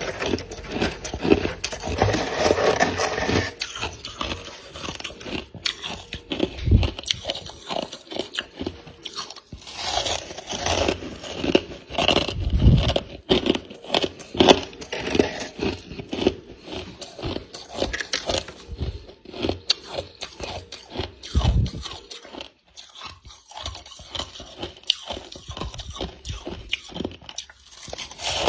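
Close-miked biting and chewing of freezer frost, a run of crisp, irregular crunches and squeaks, with a few heavier bites.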